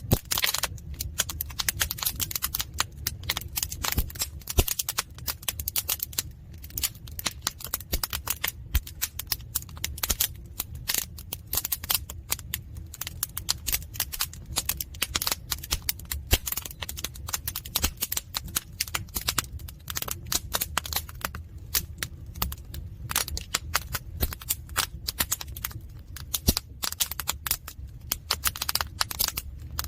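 Firewood burning in a traditional agungi firebox, crackling and popping constantly and irregularly over a low, steady rumble of the fire.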